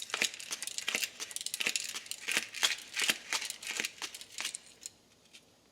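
Quick, irregular clicks and scrapes of small parts being handled at the workbench, likely the metal fuel-line tubing and its fitting. They stop about four and a half seconds in.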